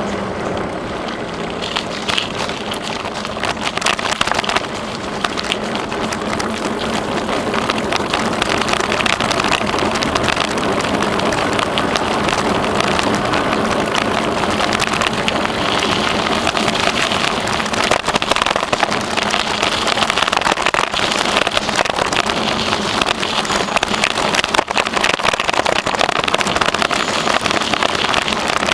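Bicycle rolling along a trail: steady tyre noise with constant small rattles and crunches, a little louder from about five seconds in.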